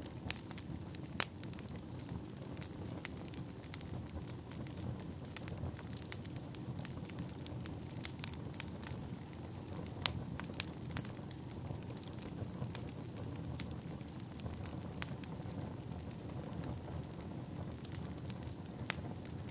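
Firewood burning: a steady low rush of flames with irregular sharp pops and crackles, one louder pop about halfway through.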